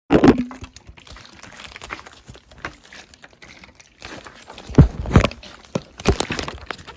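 Scattered knocks and rustling handling noises, with a sharp knock at the start and the loudest knocks about five seconds in.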